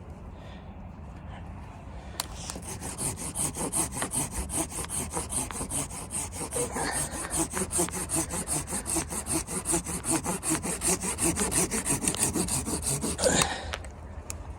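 Hand saw cutting wood with steady back-and-forth strokes, about three a second. It starts about two seconds in and stops suddenly near the end.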